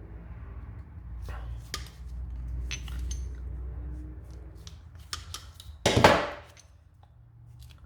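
Tyre puncture repair kit tools being handled, scattered light clicks and knocks of metal and plastic pieces, with one louder clatter about six seconds in.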